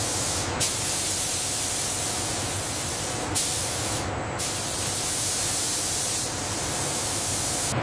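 A loud, steady hiss like escaping air or spray, with short dips in its high end about half a second in and again around four seconds in.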